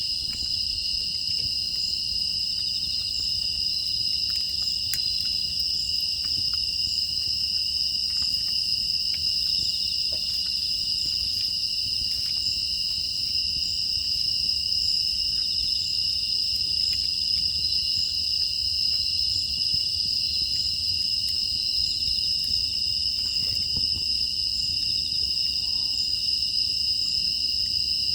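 Steady chorus of crickets and other grass insects, a continuous high trill that never breaks, with faint scattered clicks underneath.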